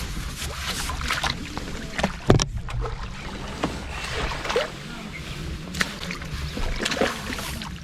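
Water splashing and sloshing with scattered knocks, the loudest a thump about two and a half seconds in, over a steady low rumble of wind on the microphone.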